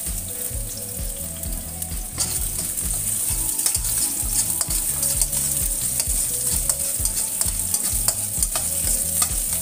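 Chopped garlic and shallots sizzling in hot cooking oil in a stainless steel wok. From about two seconds in, a metal spatula scrapes and clicks against the pan as they are stirred.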